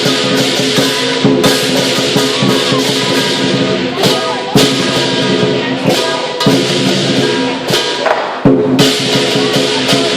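Lion dance percussion: a Chinese drum beaten rapidly with clashing cymbals and a ringing gong, with a brief break and a hard accent about eight seconds in.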